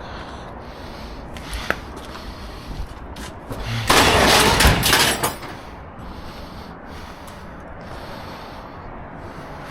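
A loud clattering crash of scrap being handled, lasting about a second and a half, a few seconds in, with scattered lighter knocks before and after.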